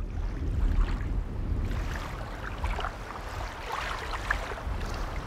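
Water splashing and sloshing unevenly, as a person thrashes in it trying to swim.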